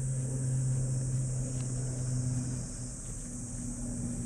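A nearby car engine running, a steady low hum, over the steady high drone of insects.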